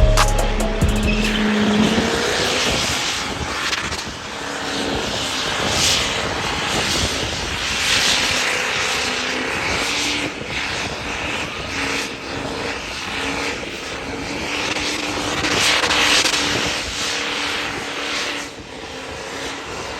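Music cuts out in the first second and a half, giving way to loud, continuous engine noise that swells and dips in level.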